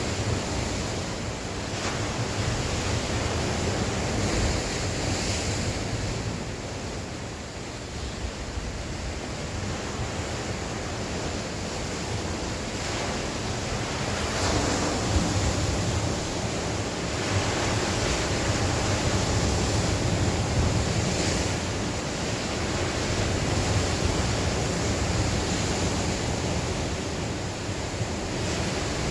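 Sea waves washing on the shore in a steady rush that swells and eases over several seconds, with wind buffeting the microphone as a low rumble.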